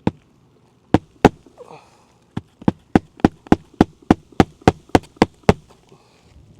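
Hammer driving roofing nails through an asphalt shingle: a few separate blows, then after a short pause a steady run of about a dozen strikes, roughly three or four a second.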